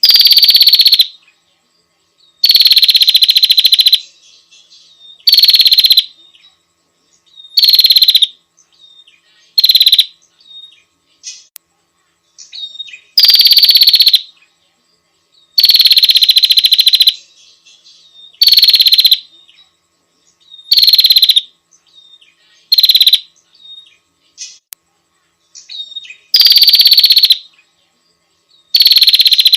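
Female prenjak (prinia) calling to attract a male: about a dozen high, fast trilled calls, each half a second to a second and a half long, repeated with short gaps.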